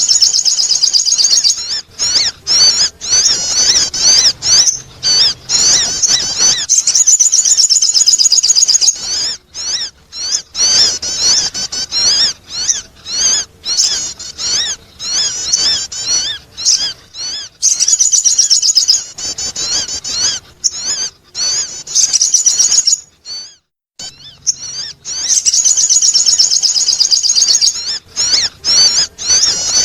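Sogon bird calling, as played for luring birds: long bursts of fast, high chattering notes, each burst broken off by short gaps.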